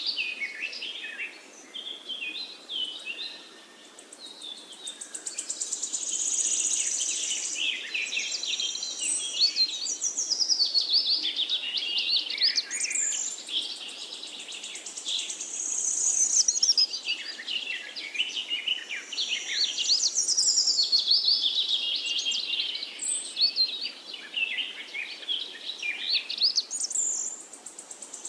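Many small birds chirping and twittering together in a dense chorus of quick, high trills and tweets, which briefly thins out twice.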